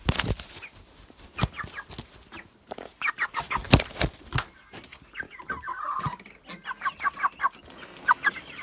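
Domestic chickens clucking, a run of short repeated calls, mixed with sharp clicks and knocks: pecking at food or scuffling. The loudest knocks come right at the start and again about three to four seconds in.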